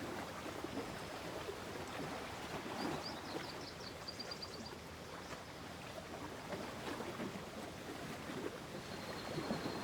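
Lake water lapping and splashing gently in small irregular ripples, with faint high twittering about three seconds in and again near the end.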